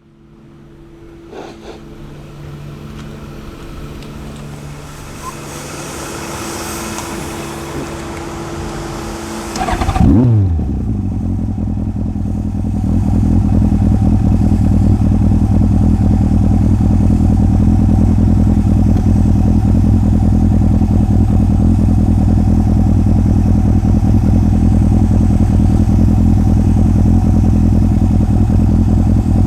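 Yamaha Fazer 1000 inline-four through a MIVV aftermarket exhaust, idling as it fades in. About ten seconds in a short rev blip falls back to idle, and from a few seconds later the idle runs steadily and louder.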